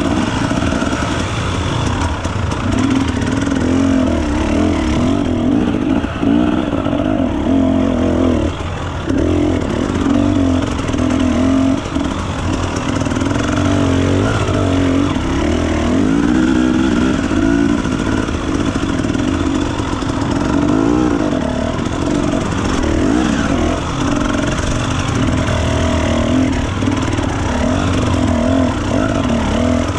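Enduro dirt bike engine running hard on a trail, its pitch rising and falling constantly as the throttle is worked.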